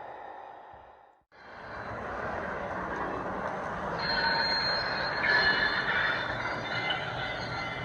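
Lionel flat spot freight sounds boxcar playing its recorded freight-car running sound through its small onboard speaker: rail rumble with high wheel flange squeal from about four seconds in. The sound fades out and drops away briefly about a second in, then resumes.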